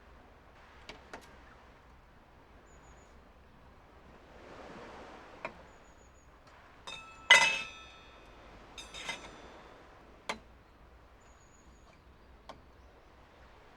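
Objects being handled, with scattered light clicks and knocks. There is one loud ringing clink about seven seconds in and a smaller ringing clink a second and a half later.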